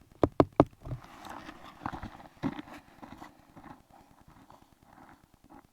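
Three sharp knocks in quick succession, followed by faint scattered knocks and clicks.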